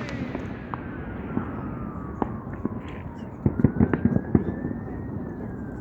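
Fireworks and firecrackers popping and crackling at a distance: scattered single pops, then a quicker cluster of bangs from about three and a half seconds in. A faint thin whistle slides down and then back up.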